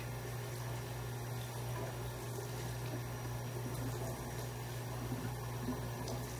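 Water running steadily from a tap into a sink, over a steady low hum.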